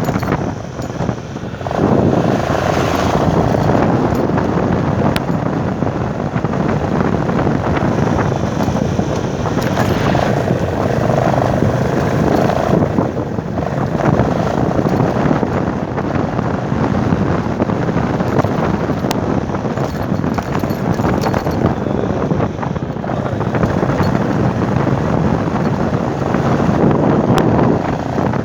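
Motorcycle on the move, its engine running under wind rushing over the microphone, with a short drop in level about a second in.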